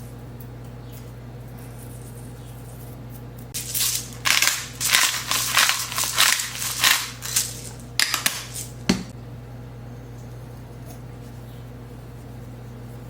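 A run of crinkling, scraping handling noises, many short sharp strokes for about five seconds in the middle, over a steady low hum.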